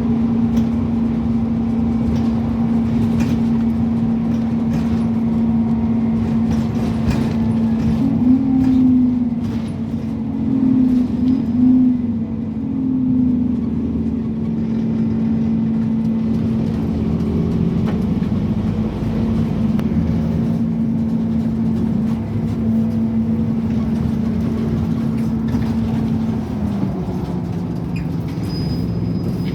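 Scania N270UD OmniCity double-decker bus driving, its engine drone heard from on board as a steady low tone, wavering between about 8 and 13 seconds in, with scattered rattles and clicks. The tone drops in pitch about 27 seconds in.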